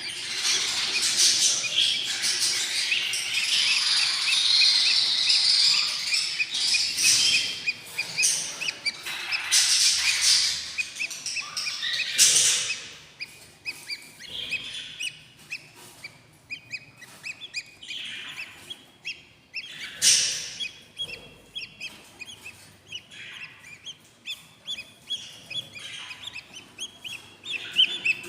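Budgerigar chicks calling in a nest box: a loud, raspy, hissing chorus with rapid chirps for about the first twelve seconds, then quieter short peeps repeated at intervals.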